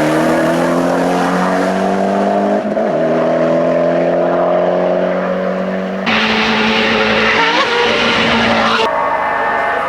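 Hill-climb race car engine at full throttle, its note climbing slowly through a gear with a quick break about three seconds in, like an upshift. About six seconds in and again near the end the sound changes abruptly to a steadier engine note with more hiss.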